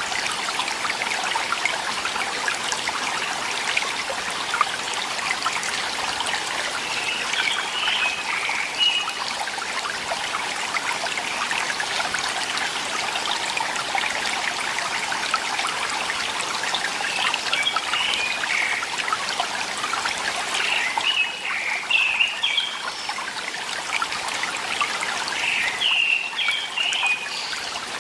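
Valley stream water trickling and running steadily. A bird's short chirping calls come through several times, about a quarter of the way in and again more often in the second half.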